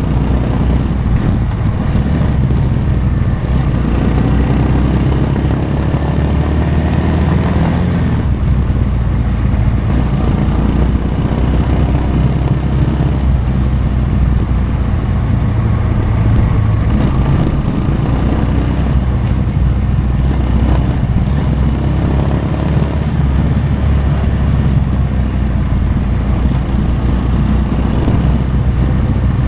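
Motorcycle engine running while riding, its pitch rising and falling several times with the throttle over a steady low rumble.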